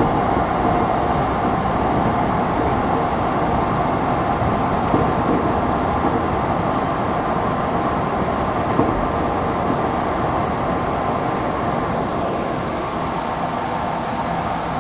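Odakyu 1000-series electric train running at speed, heard from inside the car: a steady rumble of wheels on rail with a faint steady whine, easing slightly near the end.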